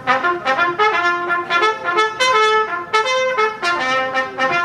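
Swing-band introduction: a brass instrument, most like a trumpet, plays a lively melody of short, quick notes.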